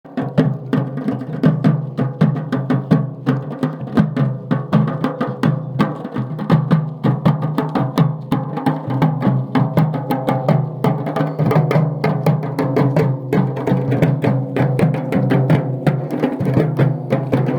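Drum-led music: fast, dense drum strikes in a steady rhythm over sustained low tones.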